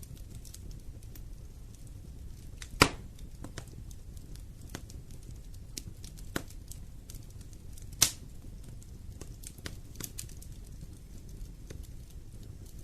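Wood fire burning in a fireplace, crackling with scattered small snaps over a low steady rumble. Two loud pops stand out, about three seconds in and again around eight seconds in.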